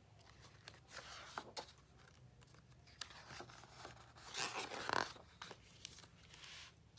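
Paper rustling and sliding as the pages of a picture book are handled and turned, with light clicks and a louder rustle about four and a half seconds in.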